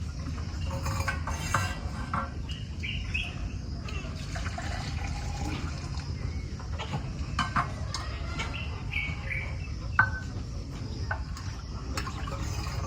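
Liquid being poured and handled, with scattered light clinks and knocks and one sharper knock about ten seconds in.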